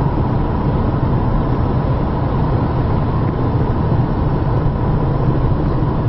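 Steady road and engine noise of a moving car heard from inside the cabin, a low unbroken rumble.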